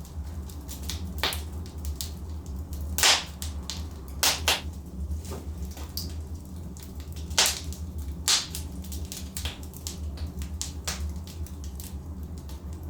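Wood fire burning in a fireplace: burning logs crackling and popping at irregular intervals over a steady low rumble, with the loudest pops a bit after three seconds and again around seven to eight seconds in.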